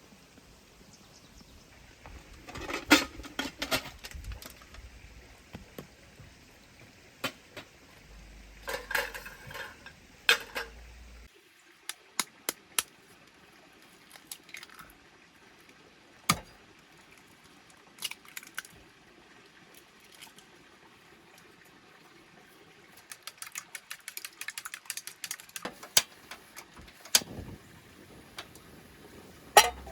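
Scattered clinks, knocks and light clatter of small hard objects being handled. There are short clusters early on and a dense run of quick small clicks later, with the background dropping quieter about eleven seconds in.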